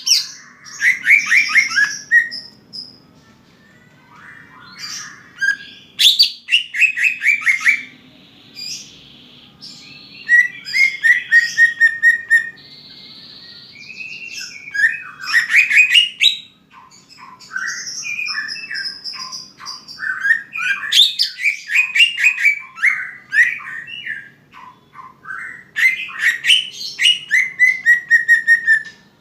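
Cucak ijo (greater green leafbird) singing in full voice: repeated phrases of fast chattering trills and clear whistled notes, coming in bursts every few seconds with short pauses between them.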